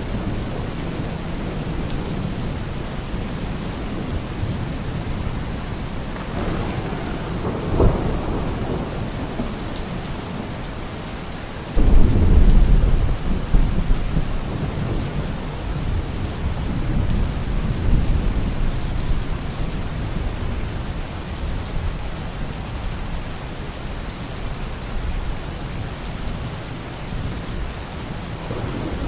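Steady heavy rain falling, with thunder: a sharp crack about a third of the way in, then a sudden loud, deep rumble just before the middle that rolls off over the following seconds.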